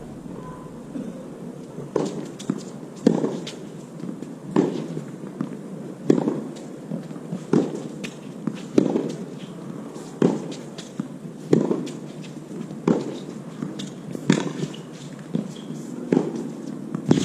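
Tennis rackets striking the ball back and forth in a long rally: a sharp pock about every one and a half seconds, a dozen or so shots in a row.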